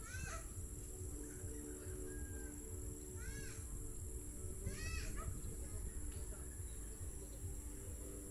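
A bird giving three short calls a few seconds apart, over a low rumble of wind on the microphone and a steady faint hum.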